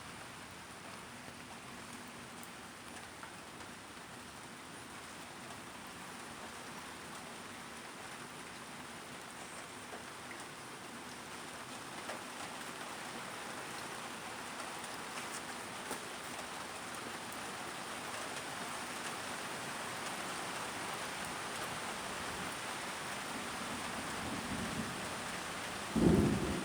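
Steady rain falling during a thunderstorm, slowly growing heavier. Near the end a low rumble of thunder builds into a sudden loud thunderclap.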